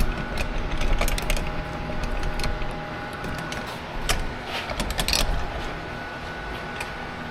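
Irregular clicks, knocks and light metallic rattles of garage door opener hardware being wiggled and worked into place by hand, with a burst of quick clicks about four to five seconds in.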